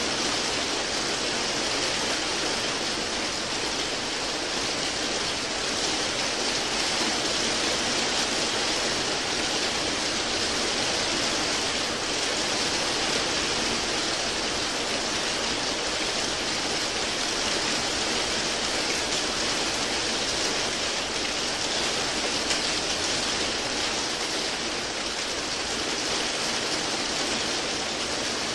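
Steady rain, an even hiss with no distinct drops or other events.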